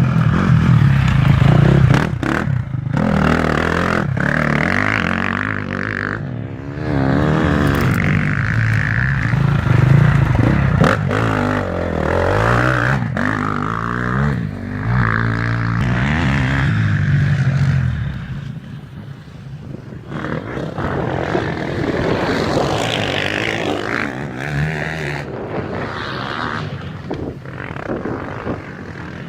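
Motocross motorcycle engines running and revving, rising and falling in pitch, mixed with noisy rattling. The engine sound thins out about two-thirds of the way through.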